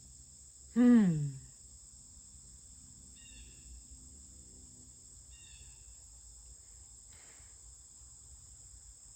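Crickets trilling steadily, with a woman's voice giving one short vocal tone that slides downward in pitch about a second in.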